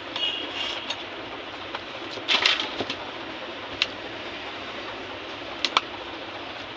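A few sharp small clicks and clinks of small parts being handled, over a steady background hiss.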